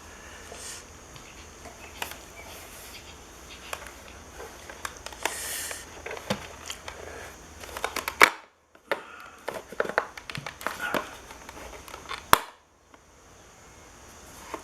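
Hands handling and fitting car side-mirror parts: scattered clicks, knocks and crinkling handling noise, with two sharp loud clicks, one just after the middle and one near the end. Each loud click is followed by a moment of silence.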